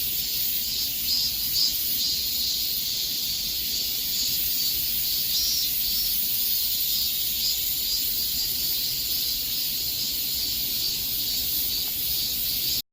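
Chorus of cicadas buzzing in a dense, steady, high-pitched drone that cuts off suddenly just before the end.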